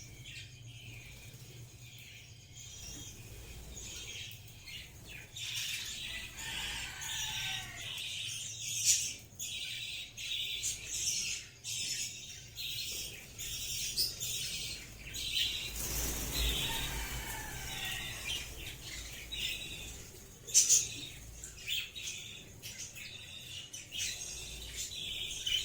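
Budgerigars chattering and warbling nonstop in quick, high chirps and trills, broken by a few short, sharp noises; the loudest come about nine seconds in and again about twenty seconds in.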